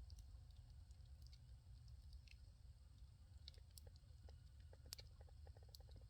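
Firewood fire crackling faintly: scattered small pops and snaps, a few sharper ones past the middle, over a low steady rumble.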